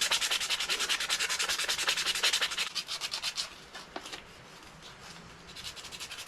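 100 grit sandpaper rubbed by hand over a knife handle in rapid back-and-forth strokes, several a second. The sanding stops about halfway through and starts again near the end.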